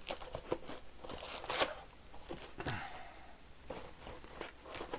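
Cardboard trading-card hobby box and its packs being handled and opened: scattered light taps and clicks with brief rustling and tearing of packaging.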